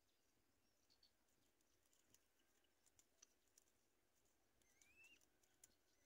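Near silence, with faint scattered clicks and, near the end, one faint rising bird call.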